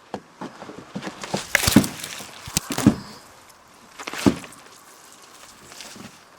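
Irregular footsteps and knocks as objects are moved and set down, with brushing and scraping between; the three loudest thuds come about a second apart in the first half, then it quietens.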